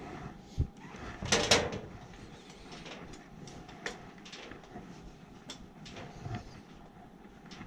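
Handling noise: scattered clicks and knocks, with a louder scraping rustle about a second and a half in.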